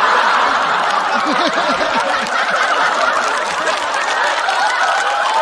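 Studio audience laughing loudly, many voices at once, as a crowd's reaction to a stand-up punchline.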